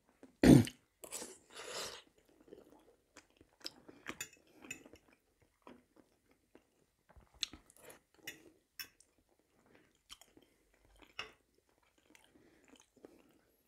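A person chewing food close to a clip-on microphone, with soft wet mouth sounds and scattered small clicks. A louder thump comes about half a second in.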